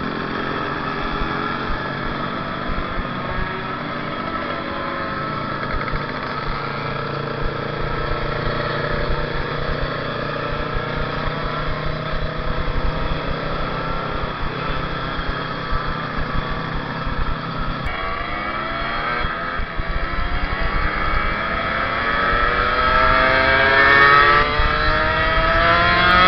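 Kawasaki Ninja 150 RR's single-cylinder two-stroke engine heard from the rider's seat, running at a steady pitch while cruising. Near the end it accelerates hard, its pitch rising and the sound getting louder.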